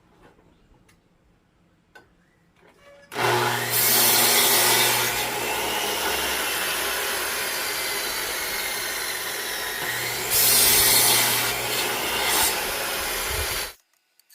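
Power saw cutting through wood: it starts suddenly about three seconds in, runs steadily with two louder stretches of cutting, and cuts off abruptly near the end.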